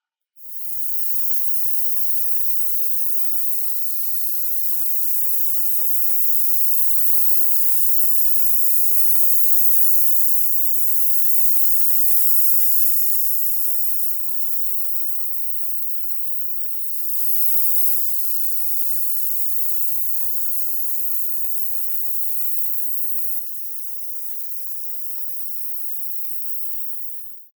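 Paint spray hissing steadily, shifting in level a few times and cutting off sharply at the end.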